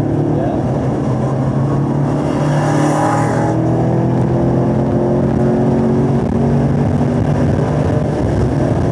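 2017 Camaro SS 1LE's 6.2-litre V8 accelerating hard in third gear, its pitch climbing steadily as the revs rise from about 4,500 to 6,000 rpm, heard from inside the cabin. A brief hiss joins it about three seconds in.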